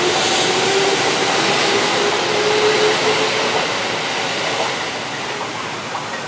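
Kintetsu red-and-white electric train running along the track: a steady rail rumble with a whine that rises in pitch over the first three seconds. The sound eases off in the second half as the train moves away.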